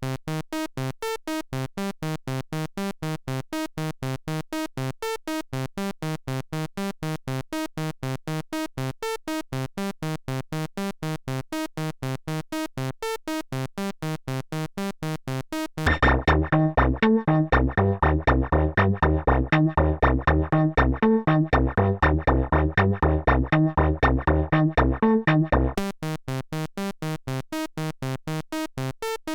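Roland SE-02 analog monophonic synthesizer playing a fast step-sequenced pattern of short, evenly repeated notes. About 16 seconds in, a louder patch with much more bass takes over for about ten seconds, then the thinner, brighter sound returns.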